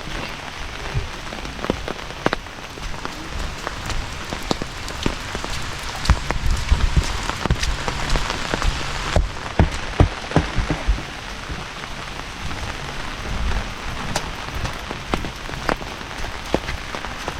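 Heavy rain falling steadily, with many sharp taps of big drops striking close by. The drops come thickest and heaviest about six to eleven seconds in.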